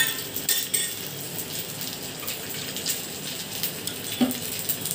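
Thavalai vadai shallow-frying in oil on a dosa griddle: a steady sizzle with dense crackling as the patties crisp, and a few metal utensil clinks against the pan.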